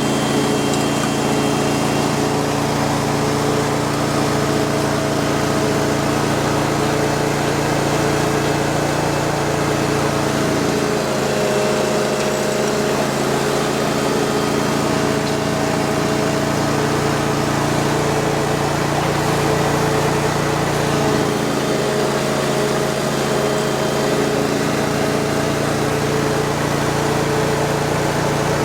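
Ditch Witch FX20 vacuum excavator's engine running steadily, its note changing for a few seconds twice, about eleven and about twenty-one seconds in.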